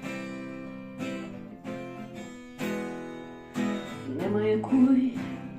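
Acoustic guitar strumming chords, a strum about every second, with a voice coming in singing a line near the end.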